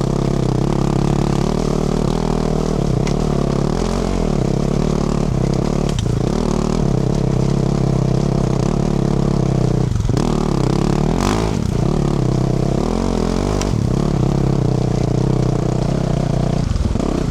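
A 2024 Yamaha YZ450F's single-cylinder four-stroke engine, heard through its Yoshimura RS-12 exhaust, running under changing throttle while riding. The pitch rises and falls as the throttle opens and closes, with a few brief drops and occasional knocks and clatter.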